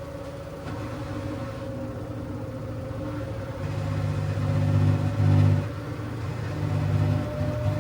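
LG washing machine running, its motor giving a steady whine that creeps slowly up in pitch. A low hum from the drive cuts in about three and a half seconds in and pulses in and out after that.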